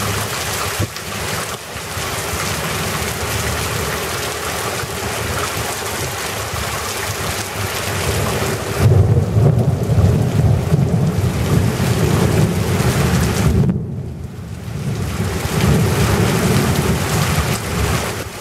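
Heavy rain pouring down in a thunderstorm, with a strong low rumbling that comes in about halfway and carries on, briefly cut off near the end.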